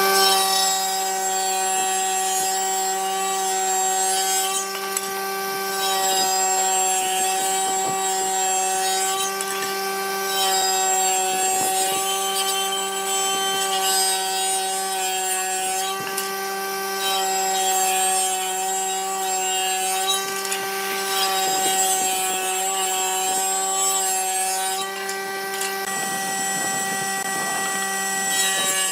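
A motor-driven power tool running at a steady pitch, with an uneven scraping, rubbing noise over it.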